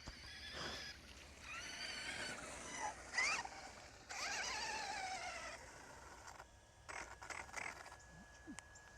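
Radio-controlled car's electric motor whining faintly, its pitch rising and falling several times as it speeds up and slows down.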